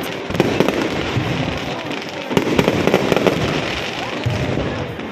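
Aerial fireworks going off in a dense run of overlapping bangs and crackles, heaviest about two and a half to three seconds in.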